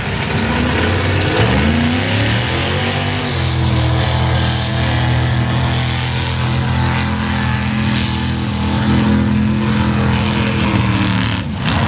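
Mud-racing truck's engine revving up hard over the first three seconds, then held at high, steady revs through the run, dropping off shortly before the end.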